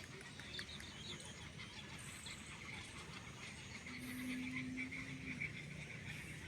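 Small birds chirping continuously, many short high calls overlapping, over a faint outdoor hush. About four seconds in, a low steady tone holds for a second and a half.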